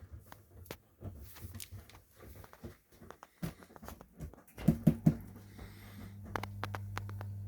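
Washing machine at work: scattered light clicks and knocks, then three loud short thuds about five seconds in, after which a steady low hum sets in.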